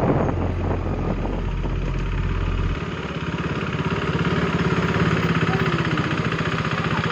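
Motorcycle engine idling, with an even, rapid pulse that becomes clear about three seconds in after a steady low rumble.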